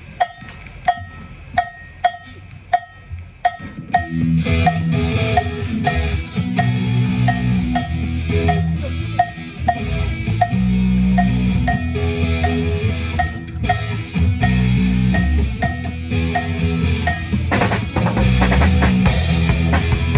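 A cowbell struck alone in a steady beat, about three strikes every two seconds, then a live rock band (electric guitar, bass and drum kit) comes in about four seconds in with the cowbell still keeping time. Cymbals get louder near the end.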